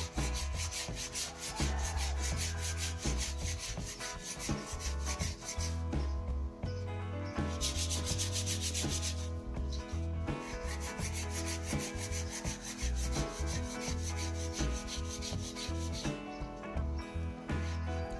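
Sandpaper rubbing continuously along a new wooden snooker cue shaft, sanding it down to its taper, over a low steady hum.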